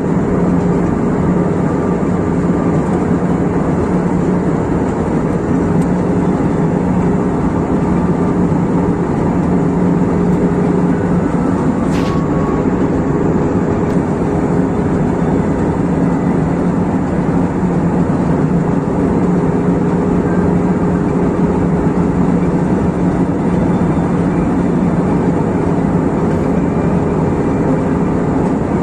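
Airliner cabin noise in flight: a steady drone of engines and airflow with a low hum. There is one brief click about twelve seconds in.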